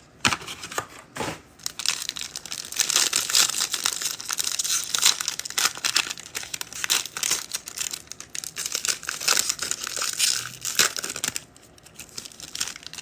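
Plastic wrapper of a sealed trading-card pack crinkling and tearing as it is ripped open, a dense crackle for most of the stretch that goes quiet near the end.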